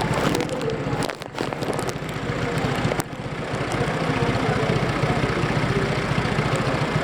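Car engine running close by with a steady, fast low pulsing, briefly dipping in level about a second in and again at about three seconds.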